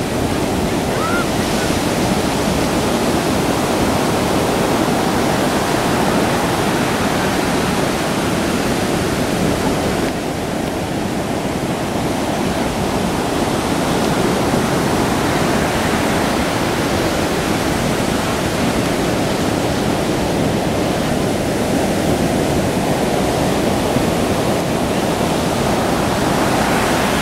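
Heavy ocean surf from a hurricane swell, waves breaking in a loud, continuous rush, with a short dip about ten seconds in.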